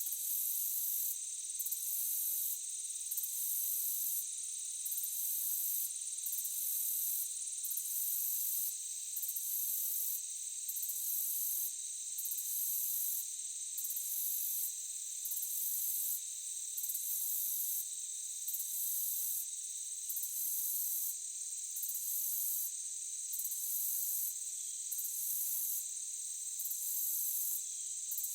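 Insect chorus of crickets: a steady shrill drone, with a higher chirring layer that pulses on and off about every second and a half.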